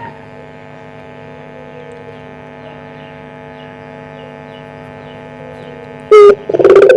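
A steady electrical hum for about six seconds, then a puter pelung dove breaks into a loud, rough cooing call near the end.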